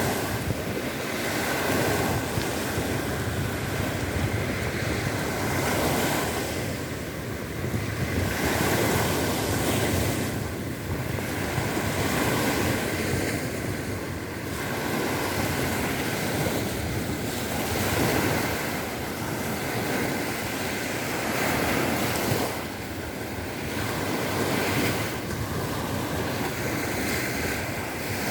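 Waves washing onto a shore, the rushing noise swelling and easing every few seconds, with wind on the microphone.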